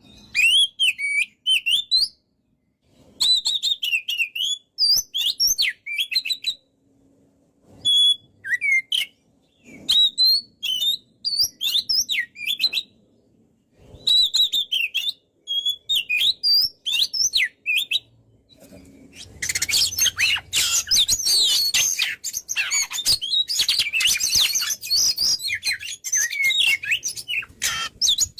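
Oriental magpie-robin (kacer) singing loudly in short phrases of quick, varied whistles and twitters with brief pauses between them. About two-thirds of the way in, the song becomes a dense, unbroken run.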